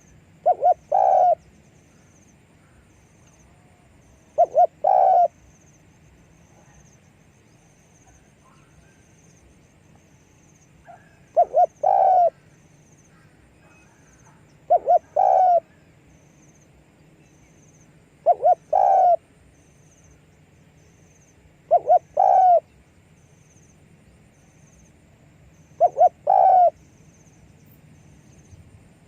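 Spotted dove cooing: a phrase of two short notes and a longer coo, repeated seven times about every three to four seconds.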